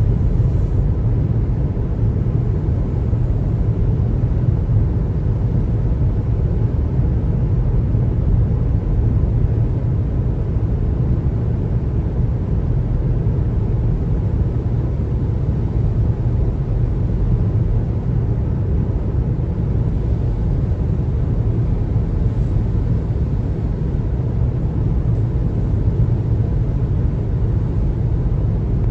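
Steady low rumble of road and tyre noise from a car driving at an even speed on a highway.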